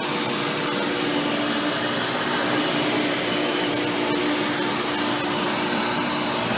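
Hoover Power Drive Supreme upright vacuum cleaner, fitted with a 20-blade impeller fan, running steadily. A steady hum sits over the rush of air.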